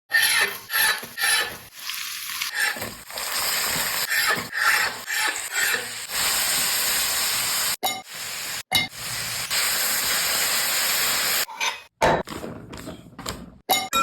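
Food sizzling in hot oil in a pan, with stirring and scraping strokes, broken by abrupt cuts about 8 and 12 seconds in.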